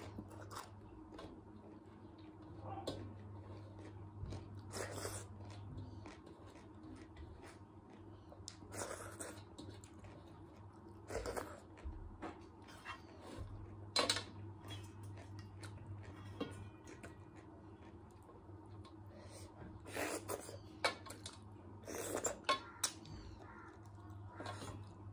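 Close-up chewing and mouth sounds of a person eating chicken and rice by hand, with scattered short crunches and wet smacks. A low steady hum runs underneath.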